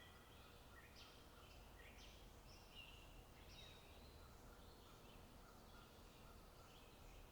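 Faint birdsong: a small bird's short chirps repeating about every half second to a second, over a low steady background rumble.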